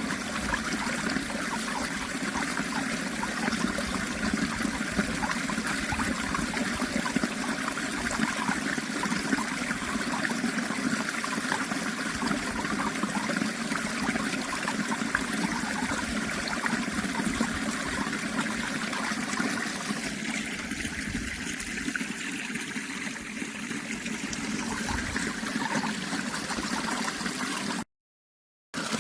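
Running water flowing and trickling steadily. It drops out to silence for under a second near the end, then resumes.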